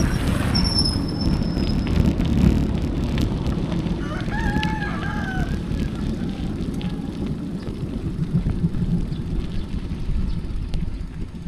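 Steady low wind rumble on the microphone from riding. About four seconds in, a rooster crows once, a call of about a second and a half. Near the start there is a brief high-pitched whistle.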